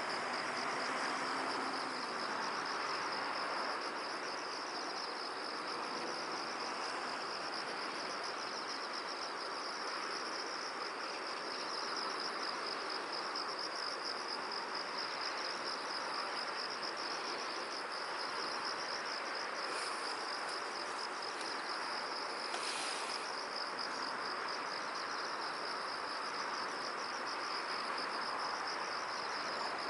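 Insects trilling continuously in a fast, steady high-pitched pulse, over an even background hiss. A brief sharp sound cuts in about two-thirds of the way through.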